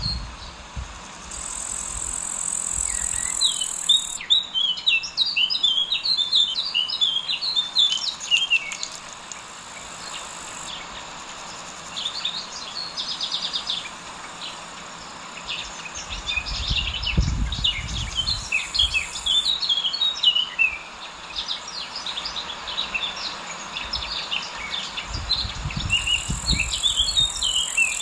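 Small birds chirping and twittering in rapid bursts, with a steady high insect buzz coming and going twice and an occasional low rumble.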